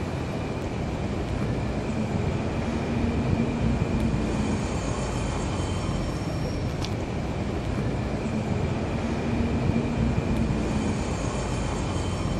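Train in motion: a steady rumble, with faint high-pitched squealing twice, about four seconds in and again near the end.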